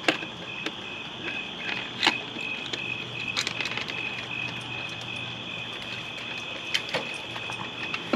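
Crickets chirping steadily, a high pulsing note about three times a second, with a few sharp clicks and knocks scattered through, the loudest right at the start and about two seconds in.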